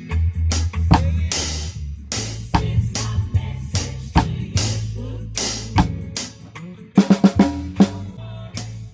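Drum kit playing a reggae groove of snare, bass drum and rim strokes along with a backing track's bass line. About seven seconds in comes a quick run of about six strokes: a break leading back into the chorus.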